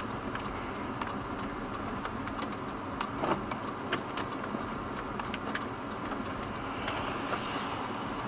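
Steady vehicle running noise with scattered short clicks and rattles.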